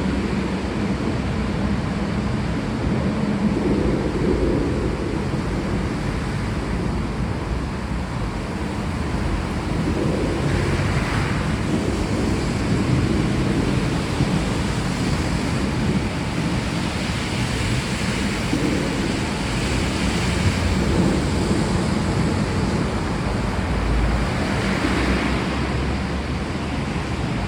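Heavy rain falling steadily: a dense, even hiss with a low rumble beneath it and slow swells in loudness.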